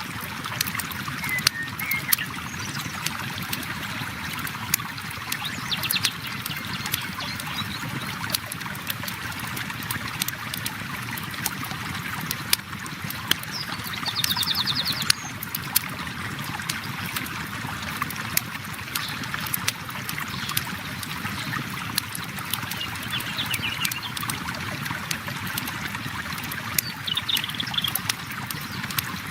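Flowing river water with a crackling campfire, its pops and snaps landing sharply and at irregular intervals. A few short bird chirps come and go, the clearest a quick trill about halfway through.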